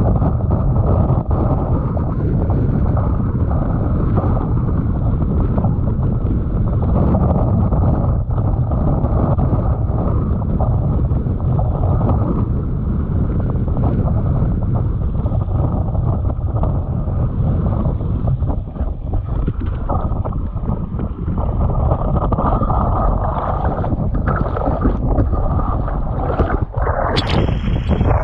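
Strong wind buffeting the microphone as a steady, loud low rumble, with a brief brighter rustle near the end.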